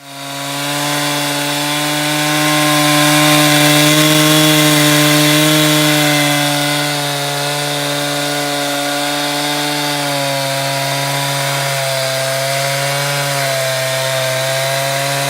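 Two-stroke chainsaw running at high revs, cutting into wood with a steady engine note. It starts abruptly, is loudest a few seconds in and eases slightly about halfway through.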